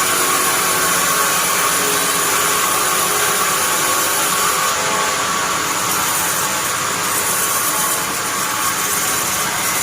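Sawmill bandsaw running with a steady, loud hiss, most of it high-pitched.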